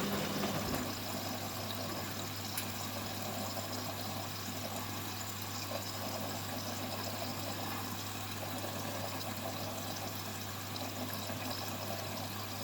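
Hoover Baby washing machine taking in water for its final rinse: a steady hiss of running water over a low steady hum. A higher motor tone cuts off about half a second in.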